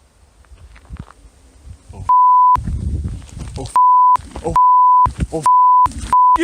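Five loud, steady censor bleeps cutting in over a person's shouting from about two seconds in, with snatches of the yelling voice heard between them; the bleeps hide swearing.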